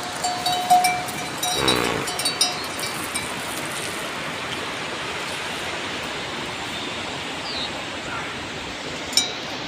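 Steady hiss of rain. In the first few seconds a livestock bell clinks on and off, and a short bleat sounds about two seconds in.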